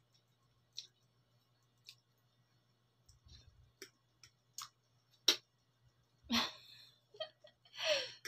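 Close-up eating sounds: a few sparse, soft mouth clicks and smacks from chewing, the loudest about five seconds in, then a breath about six seconds in and a short vocal sound just before speech.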